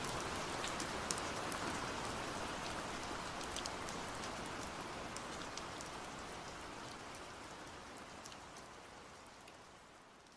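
Steady rain, with single drops striking a surface as sharp ticks over the even hiss. It fades out gradually, getting steadily quieter toward the end.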